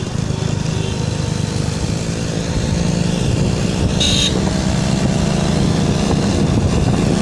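Motorcycle engine running while riding, with heavy wind and road rumble on the microphone. The engine note rises from about three seconds in as it accelerates, and there is a brief high-pitched sound about four seconds in.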